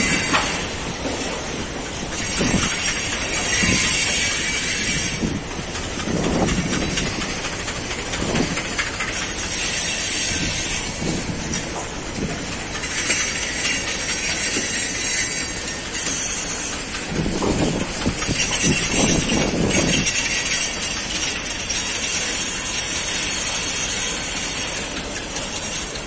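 Freight train of tank wagons rolling past at close range, the wheels knocking over the rail joints, with several stretches of high-pitched wheel squeal lasting a few seconds each.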